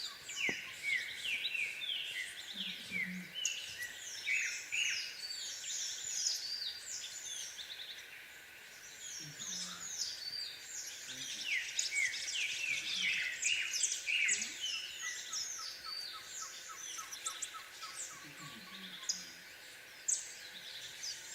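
Several birds singing at once, a busy chatter of quick downward-sliding chirps that thins out briefly twice.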